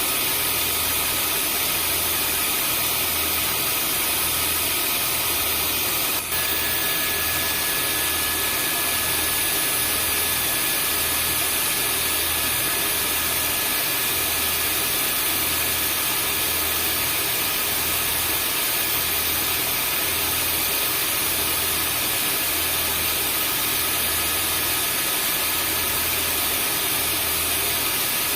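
Vacuum cleaner running steadily: an even rushing whir with thin high whines on top and a slow, pulsing low hum. About six seconds in there is a brief dropout, after which a further whine joins.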